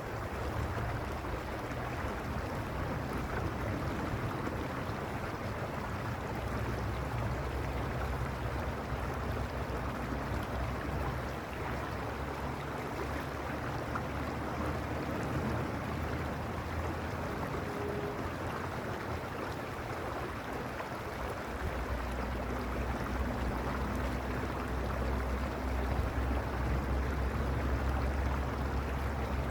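Creek water running steadily. A low rumble lies underneath and grows stronger about two-thirds of the way in.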